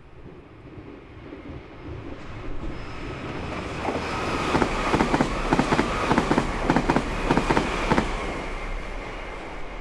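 Meitetsu Nagoya Main Line train passing: its rumble builds, the wheels clatter over the rail joints in a quick run of knocks from about four to eight seconds in, then the sound fades as the train moves away.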